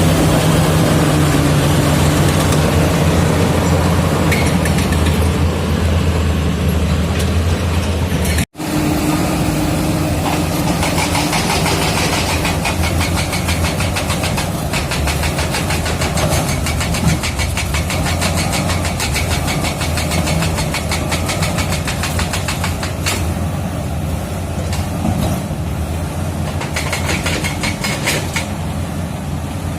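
Komatsu D85E-SS bulldozer's diesel engine running steadily. The sound cuts out for an instant about eight seconds in, and from about eleven seconds a fast, even clatter runs over the engine for some ten seconds.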